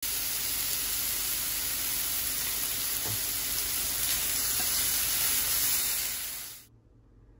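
Chicken breast pieces and broccoli sizzling steadily as they fry in a nonstick frying pan; the sizzle fades out near the end.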